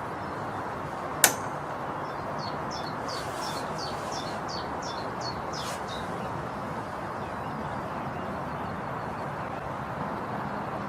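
A single sharp air rifle shot about a second in. A small bird follows with a quick run of short chirps, over a steady background hiss.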